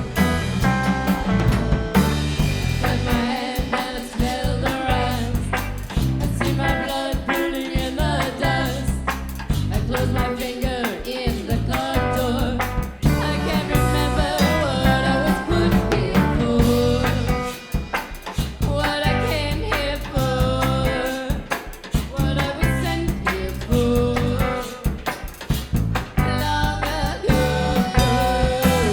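A band playing a song, a drum kit keeping a steady beat under pitched instruments and possibly wordless voice.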